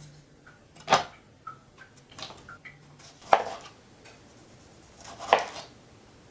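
Kitchen utensils and dishes knocking together: three sharp clinks about two seconds apart, with lighter taps between them.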